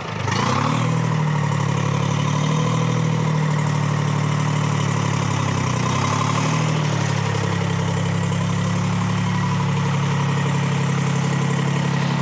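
Detroit Diesel 3-71 two-stroke three-cylinder diesel power unit running. Its speed picks up in the first second or so, then it runs steadily.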